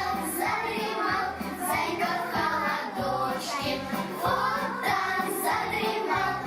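A children's song: child voices singing over a music backing track.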